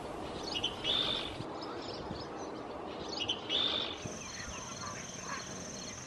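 A bird calling twice, each a short high call, over a steady outdoor hiss; about four seconds in the sound changes to a steady high-pitched trill.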